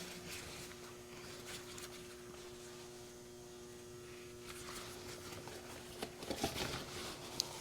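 Steady low electrical hum, with a few faint clinks and knocks near the end.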